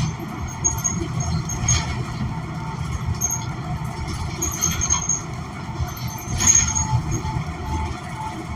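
Cabin sound of a New Flyer XN40 transit bus with a Cummins Westport ISL G natural-gas engine: a steady low rumble, with a few sharp rattles and knocks, the loudest about six and a half seconds in.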